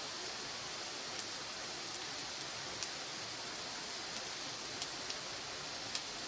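Firewood burning in an open fire: scattered sharp crackles and pops, about eight of them, over a steady hiss.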